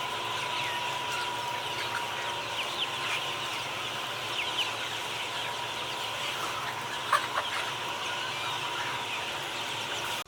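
A flock of chickens clucking and chirping, with many short, high, falling chirps overlapping, and a few louder calls about seven seconds in.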